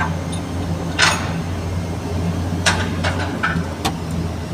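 Komatsu PC200-7 excavator's six-cylinder diesel running at a steady speed, a low even drone heard from inside the operator's cab, with a few short knocks and clanks from the cab and machine.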